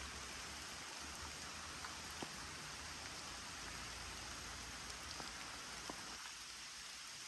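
Rain falling steadily: an even hiss with a few separate drops ticking now and then.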